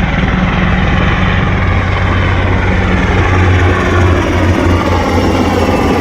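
UH-60 Black Hawk military helicopter flying low overhead: a loud, steady rapid low beat of the rotor blades over the engine's rushing noise.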